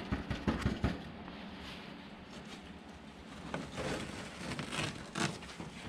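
A few quick knocks, then rustling and scraping as old carpet and debris are pulled up off a car's rusty floor pan.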